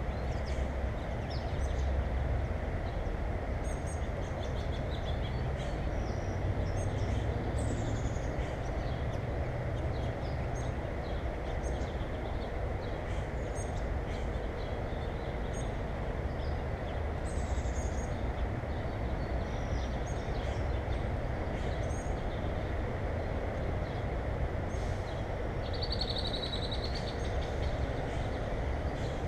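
Small songbirds giving short high chirps, with a brief trill near the end, over a steady low rumble.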